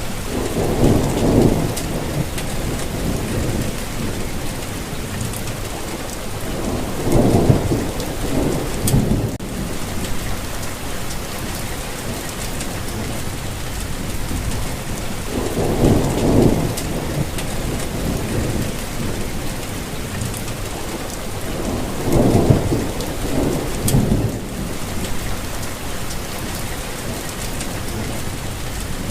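Steady rainfall hiss, with a low rumble swelling and fading four times, each about two seconds long.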